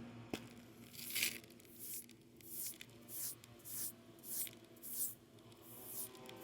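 Damp sponge being rubbed over freshly patched concrete in short, even strokes, about one every two-thirds of a second, to float and texture the surface.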